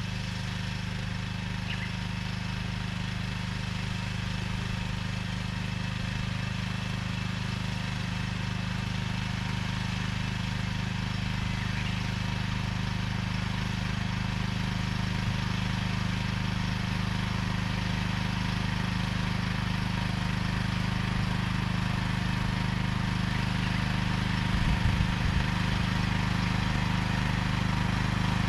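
Small engine of a vegetable transplanting machine running steadily while planting corn seedlings, with a few light knocks about three quarters of the way through.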